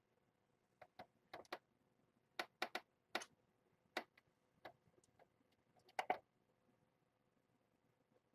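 Irregular sharp clicks and light knocks, a dozen or more in quick clusters over about five seconds, loudest near the end: handling sounds as a kitten is picked up and set on a scale for weighing. Near silence between them.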